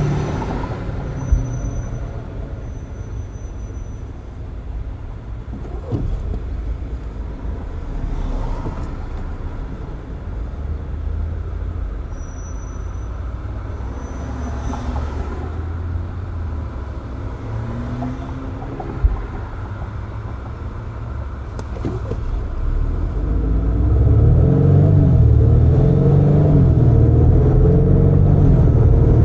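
Road and traffic noise from a car driving with its windows open: a steady low tyre and engine rumble with a couple of sharp clicks. Near the end, a louder engine rumble with a wavering pitch builds up.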